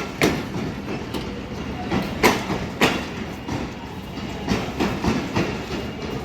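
A passenger train of LHB coaches rolling along the track, wheels clacking over rail joints at uneven intervals over a steady rumble.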